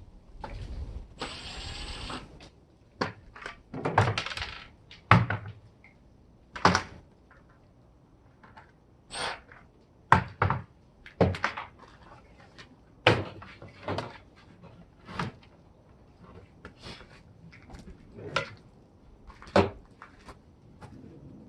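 Irregular clicks, knocks and clatters of parts being handled and taken apart, about a dozen sharp ones spread unevenly, with a short rasping scrape about a second in.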